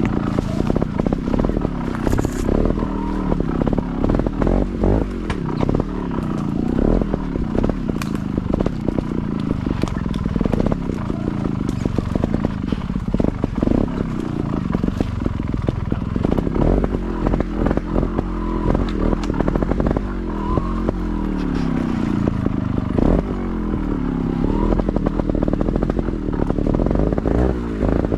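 Motorcycle engine running with the revs rising and falling again and again, mixed with frequent clattering knocks and scrapes as the bike rides over rough ground.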